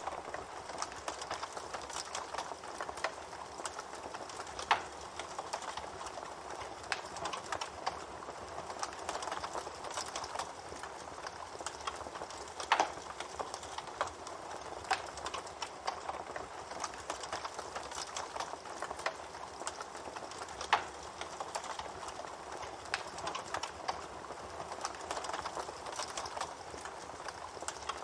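Wood campfire burning with a steady crackle and hiss, scattered with irregular sharp pops, a few of them much louder than the rest.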